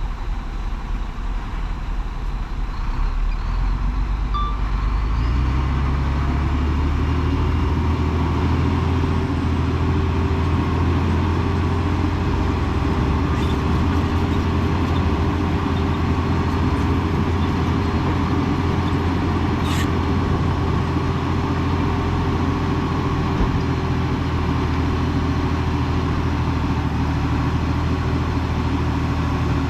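Heavy diesel engine running, building up about five seconds in and then holding a steady pitch. A brief high hiss comes about twenty seconds in.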